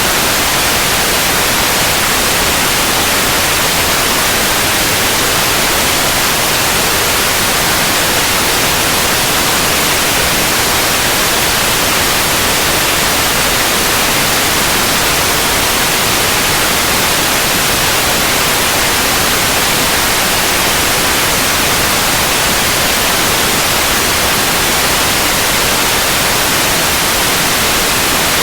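Steady white noise: an even, unchanging hiss spread across the whole range, brightest in the treble, with no breaks or changes.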